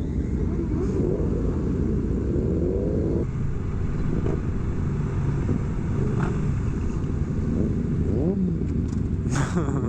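Sport motorcycle engines running and revving, the engine pitch rising and falling several times over a steady rumble of idling bikes.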